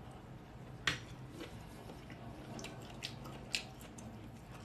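Faint chewing of a mouthful of cauliflower, with a few sharp clicks of a metal fork, the loudest about a second in.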